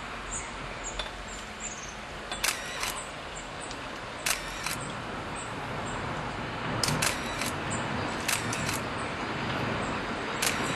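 Eizan Electric Railway Dena 21 electric railcar approaching slowly, a low steady running noise broken by sharp clicks, often in pairs, a few times over.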